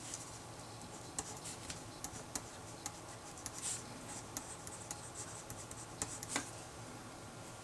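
Handwriting: irregular short scratches and taps of a writing tool on a surface as math is worked out, the sharpest stroke about six seconds in, over faint room hum.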